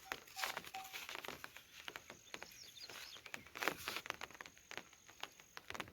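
Faint, irregular taps and clicks, several a second, with a thin high steady whine through the middle.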